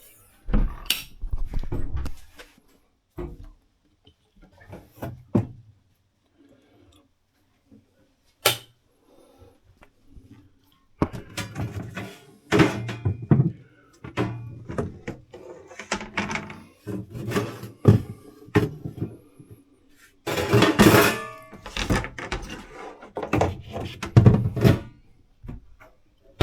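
A string of knocks, thumps and clatter from cabinet doors and stowage lids being handled in a sailboat's cabin. The noises are sparse at first and come thick and fast from about halfway on.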